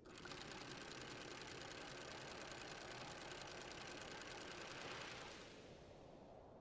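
A small motor running steadily with a fast, even pulse, fading away near the end.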